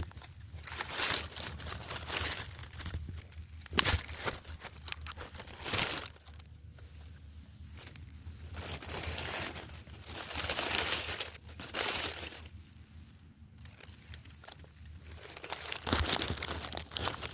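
Irregular rustling and crinkling close to the microphone, coming in bursts of a second or two, with a few sharp knocks, about three in all, over a faint steady low hum.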